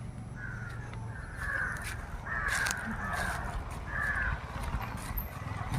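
Crows cawing, about five harsh caws spread over a few seconds, over a steady low hum.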